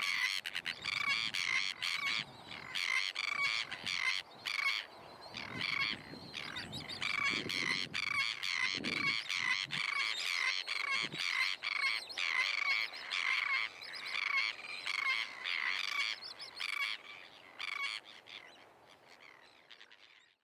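A flock of seabirds calling, many short calls overlapping in a continuous chorus that fades out near the end.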